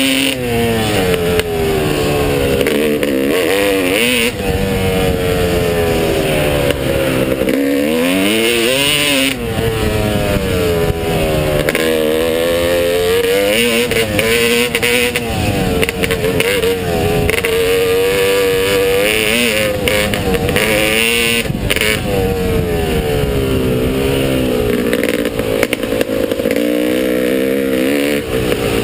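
Motocross bike engine revving, its pitch climbing and dropping back over and over as the throttle is opened and closed, with short knocks now and then.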